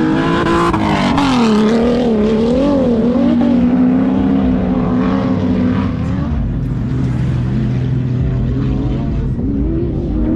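Car engines running and revving, the pitch rising and falling repeatedly with no break.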